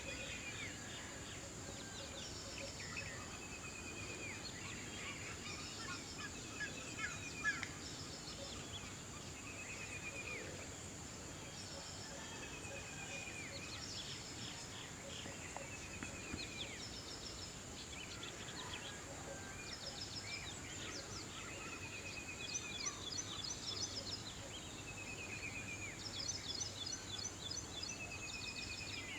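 Wild birds calling over steady outdoor background noise: short strings of quick, slightly falling notes repeat every couple of seconds, with higher rapid chattering that grows busier near the end.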